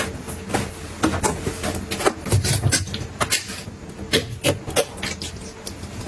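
Kitchen items and containers being handled and set down: irregular sharp clicks, taps and knocks, some close together, over a faint steady hum.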